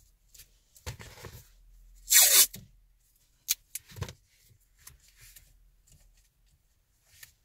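Hands-on installation handling noise: a short tearing, ripping sound about two seconds in, with scattered light clicks and knocks before and after it.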